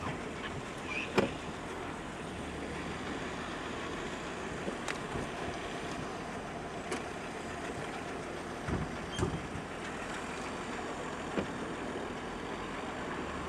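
Car driving slowly, with a steady hum of engine and tyre noise and a few sharp knocks and clunks, the loudest about a second in.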